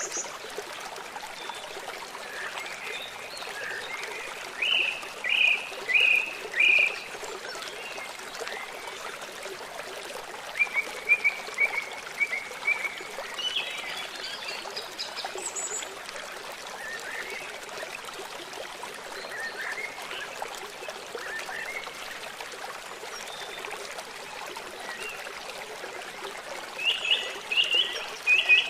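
Songbirds chirping in short runs of repeated notes over the steady rush of a flowing stream; the loudest runs come about five seconds in, around ten to thirteen seconds in, and again near the end.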